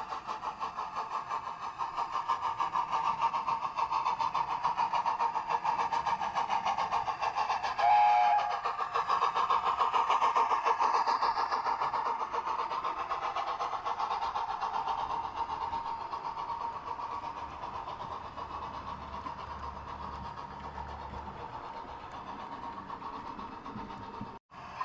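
00 gauge model train running along the layout track, its rapid rolling clatter growing louder as it approaches and slowly fading as it moves away. A brief toot of the locomotive's horn or whistle comes about eight seconds in.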